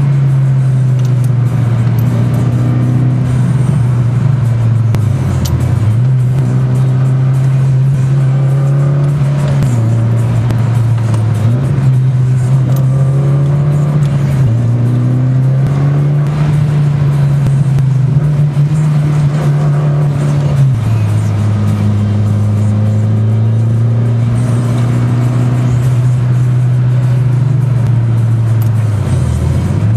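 Mitsubishi Lancer Evolution IX's turbocharged 2.0-litre inline-four engine heard from inside the car while driving, its pitch holding steady for a few seconds at a time and dropping sharply several times.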